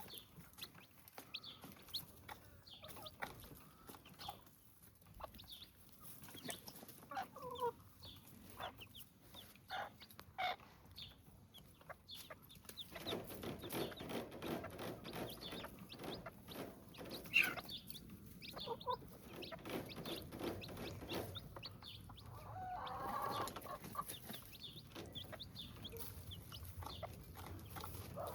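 Chickens and chicks clucking and peeping as they feed, with scattered short clicks. The calls grow busier about halfway through.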